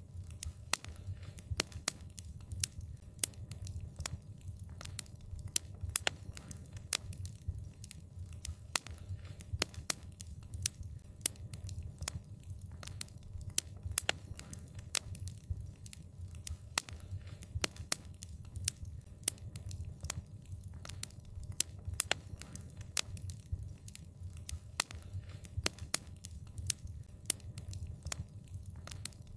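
Wood fire crackling: many sharp, irregular pops and snaps, several a second, over a low steady rumble of the flames.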